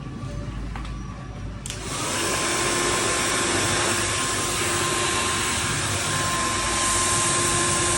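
A hand-held hair dryer switched on a little under two seconds in, then running steadily: a loud rush of air with a steady motor whine.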